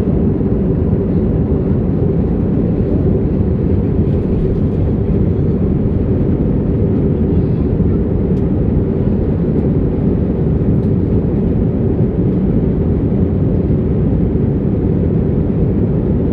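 Steady engine and airflow rumble inside an airliner's cabin in flight, a constant low roar with a faint steady hum in it.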